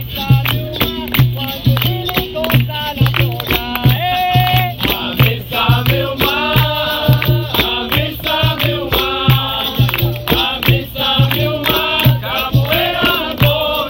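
Capoeira roda music: group singing over a steady low drum beat of about two to three strokes a second, with the rattling of a caxixi and pandeiro jingles.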